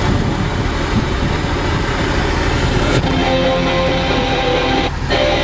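An off-road 4x4's engine running on the trail, with outdoor noise. About three seconds in it cuts off abruptly and guitar music takes over.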